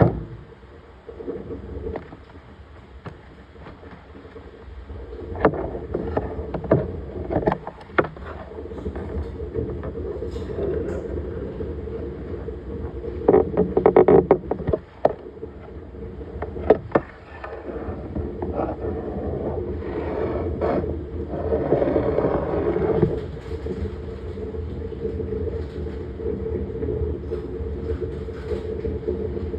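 Washing machine running: a steady motor hum with swishing surges twice, and scattered clicks and knocks.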